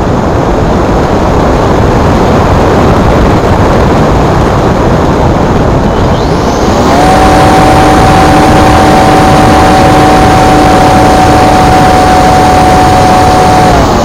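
Electric motor of a Multiplex Blizzard RC glider, upgraded with a faster motor and speed controller, whining at full power. It spools up about halfway through, holds a steady high pitch, and winds down near the end. Loud wind rush on the microphone runs throughout.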